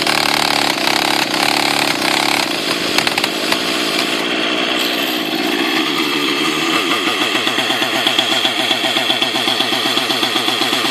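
Two-stroke nitro glow engine of a T-Rex 700 RC helicopter running at a slightly high idle to warm up, below the speed at which the clutch engages. It is ragged and uneven for the first few seconds, then settles into a steady, fast-pulsing idle.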